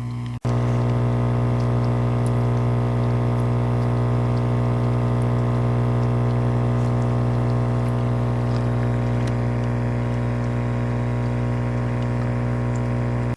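A machine running with a steady, unchanging low hum, starting after a brief cut about half a second in.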